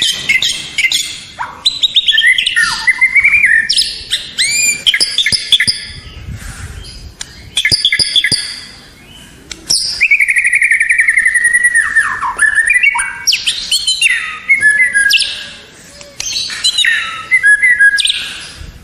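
White-rumped shama (murai batu) singing a loud, varied song of rising and falling whistles and fast trills, in phrases broken by short pauses. It is a tutor (masteran) recording of the kind played to teach other songbirds.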